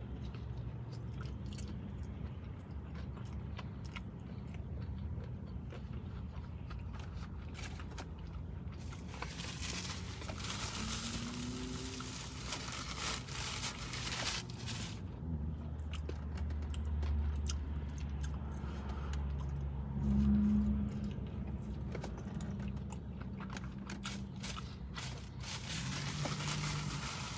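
Close-up chewing and crunching of fried chicken nuggets, with a paper bag rustling for several seconds around the middle, over a steady low hum.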